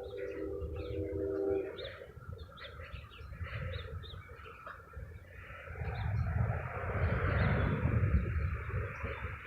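Birds chirping in short high calls, with a wind chime ringing in the first second or two. About halfway through, a steady rushing noise with a low rumble rises beneath the chirps.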